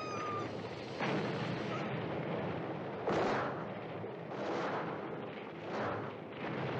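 Gasoline fire exploding, heard from a film soundtrack: sudden booming blasts about a second in and about three seconds in, over a continuous roar of flames that swells and fades several times.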